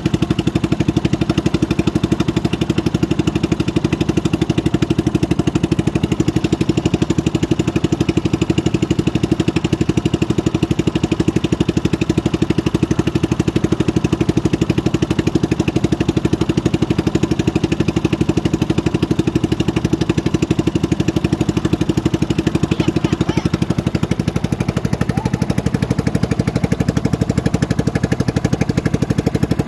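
Small engine running steadily at an even speed, with a fast regular pulse.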